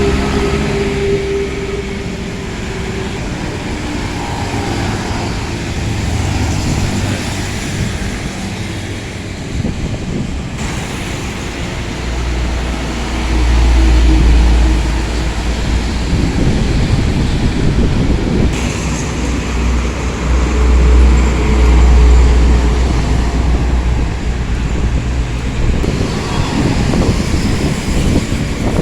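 Bus engine and road noise: a steady low rumble that grows louder twice, about halfway through and again about two-thirds of the way in. The sound changes abruptly a few times.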